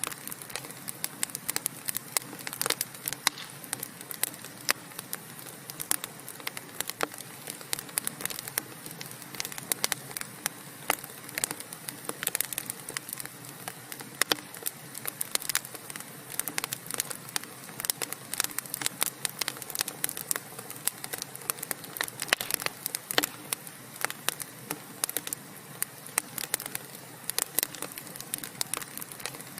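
Wood fire burning in a fireplace: a steady soft hiss with frequent irregular crackles and pops from the burning logs.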